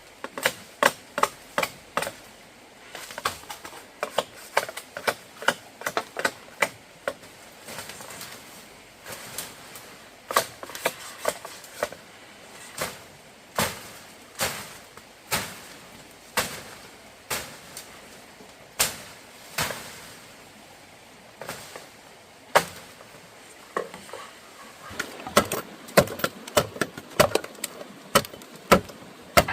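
Hand tools striking wood: an irregular series of sharp knocks in runs of several blows with short pauses, busiest at the start and again near the end.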